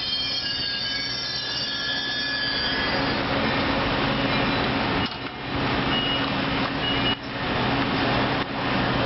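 Caltrain passenger train rolling past close by: high wheel squeal that fades out after the first few seconds, then a steady rumble of the cars with a low hum, broken by short dips as the gaps between cars go by.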